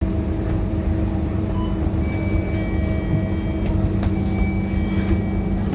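Scania K230UB bus's diesel engine running at a steady speed with a faint high whine, with a few light clicks and rattles.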